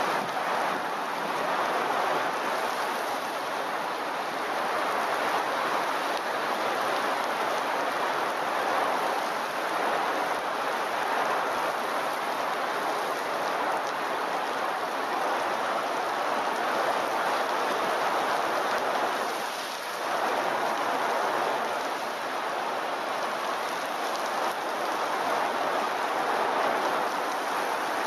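Heavy rain pouring down in a steady, even hiss, dipping briefly once about twenty seconds in.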